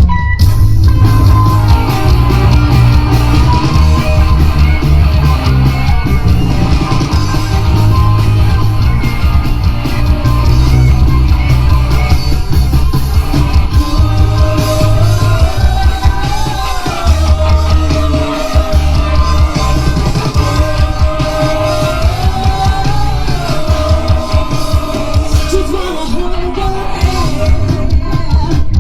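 Live rock band playing a J-rock song with drums, bass and electric guitars, with loud, partly shouted singing. From about halfway through, a held melodic line bends up and down over the band.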